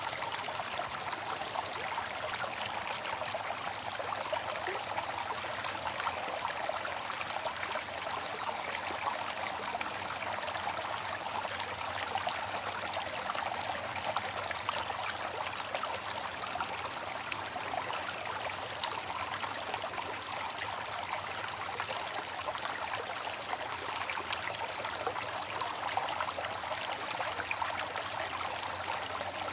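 Water fountain splashing and trickling steadily, a continuous spatter of falling water.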